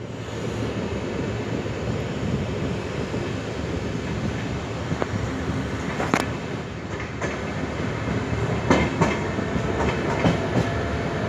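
Indian Railways express passenger coach running at speed, its wheels on the rails making a steady rumble with sharp clacks from the track, more frequent in the second half.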